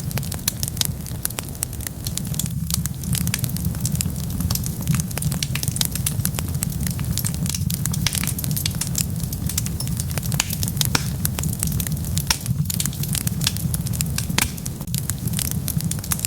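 Wood fire burning: a steady stream of crackles and small pops over a low rumble of flame.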